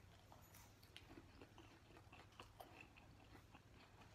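Faint close-miked chewing of a Chicken McNugget, with small wet mouth clicks scattered through it.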